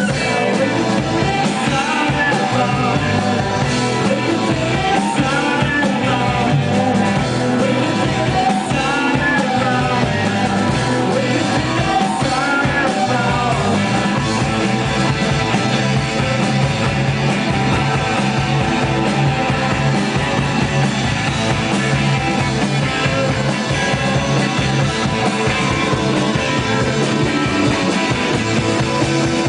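Live rock band playing: electric guitars, bass and drums, loud and steady. A lead melody line bends in pitch over roughly the first half, then the band carries on without it.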